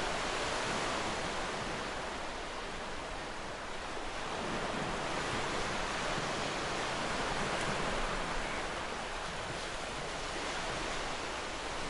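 Ocean surf: a steady wash of waves breaking on a shore, easing slightly a few seconds in and swelling again later.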